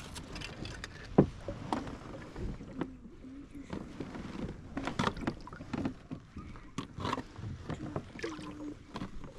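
A kayak being paddled and manoeuvred: irregular knocks and clunks on the hull, the loudest about a second in, with paddle and water sounds.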